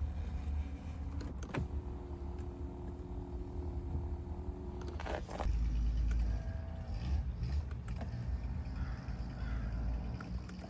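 Inside a 2000 Mercedes-Benz E430 with its V8 idling as a low rumble, an electric accessory motor runs with a steady whine for about three seconds. A thud follows, then a shorter, higher motor whine and a few clicks.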